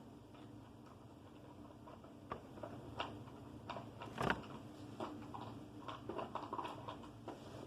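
Faint clicks and light taps of plastic building-block figures being handled and set down, with a few sharp knocks, the loudest about four seconds in, and a cluster of small taps in the second half.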